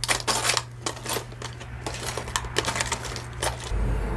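Costume jewelry clinking and clattering as pieces are handled and dropped together, a run of sharp metallic clicks at uneven intervals.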